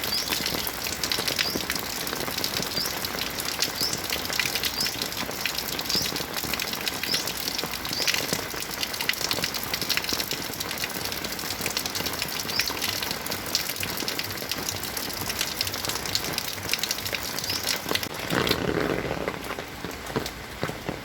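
Heavy rain falling, a dense hiss full of close drop hits. About eighteen seconds in the sound changes: the high hiss thins and a lower, fuller rush of water comes up.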